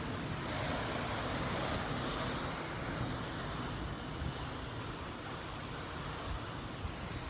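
Typhoon wind rushing past the building, heard from inside as a steady rush of noise that swells slightly about a second in.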